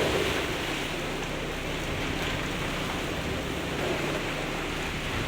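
Hurricane wind and rain, a steady rushing noise.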